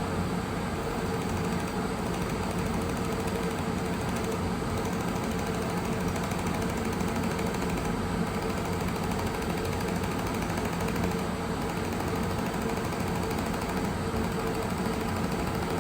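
Steady machine hum from a YAG laser welding setup, a constant drone with several low pitches and no change in level.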